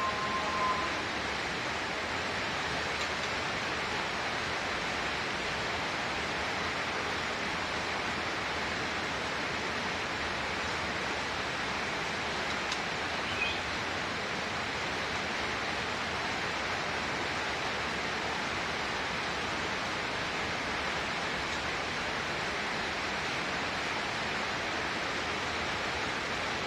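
Steady, even hiss of falling water, as in a rain shower bath for a caged white-rumped shama, with a brief bird chirp about halfway through.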